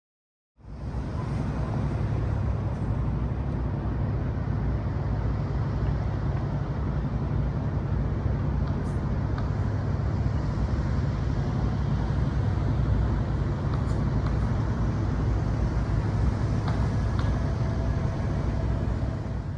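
Steady low rumble of engines and traffic, starting after a brief gap right at the start.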